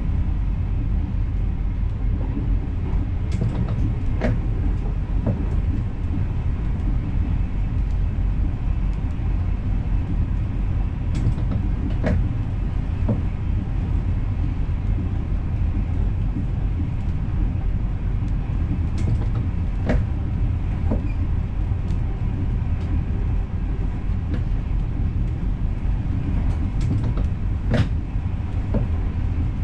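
NS Intercity train running, heard from the driver's cab: a steady low rumble with a few sharp clicks scattered through it, the loudest near the end.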